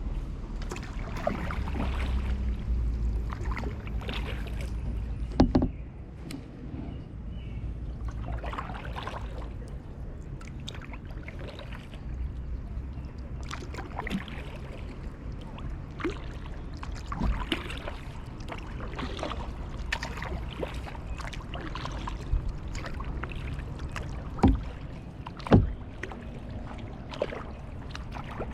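Kayak paddling: the paddle blades dip and splash irregularly in the water, with a few sharp knocks, the loudest about five seconds in and twice near the end. A low rumble runs under the first few seconds.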